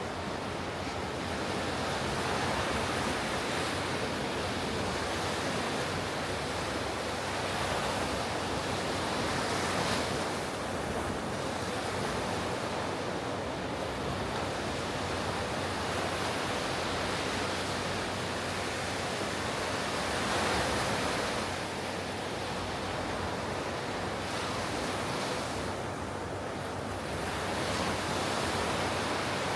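Ocean surf breaking on a beach: a continuous wash of waves that swells and eases every several seconds. Some wind noise on the microphone is mixed in.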